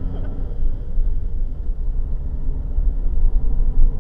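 Steady low rumble of a car driving, as picked up by a dashcam's microphone.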